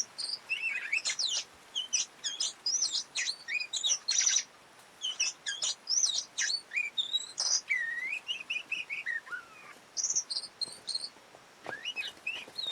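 Oriental magpie-robin (kacer) song: a fast, varied string of whistles and chirps, in phrases with short breaks.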